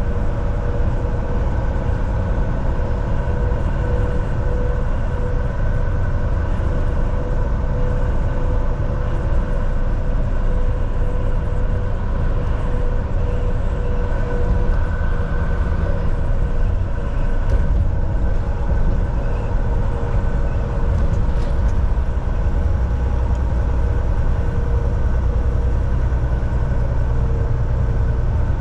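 Volvo VNL 760 semi-truck cruising at highway speed: a steady low engine and road rumble with a constant whine running through it.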